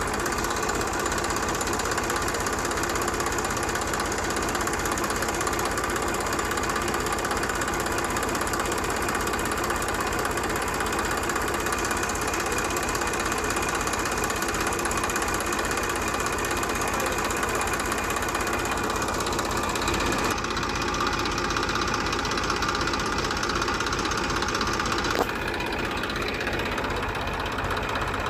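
An engine running steadily with a fast, even knocking rhythm. The sound changes abruptly twice in the last third.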